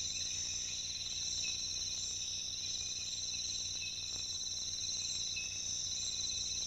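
Steady, high-pitched trilling of rainforest insects, crickets or cicadas, with several continuous pulsing tones, and a few faint higher chirps over a low background hum.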